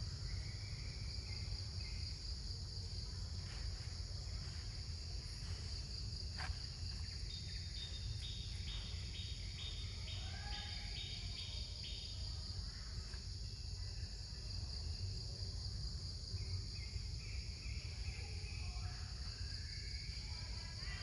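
Steady, high-pitched insect chorus over a low rumble, with scattered chirping calls. In the middle comes a quick run of about a dozen sharp chirps.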